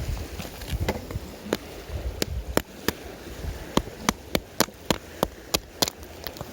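A series of sharp clicks or knocks, scattered at first and then coming about three a second, over a steady low rushing background.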